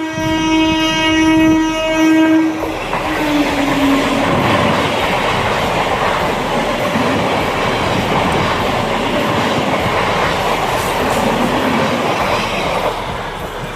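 EMU local train sounding a horn blast that drops in pitch as it goes by, followed by the steady rumble of its wheels on the rails as the carriages pass, fading near the end.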